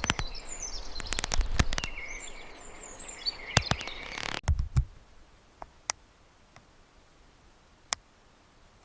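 Birds chirping over a bed of natural ambience with scattered clicks, cutting off about four and a half seconds in and leaving a quiet background with a few isolated ticks.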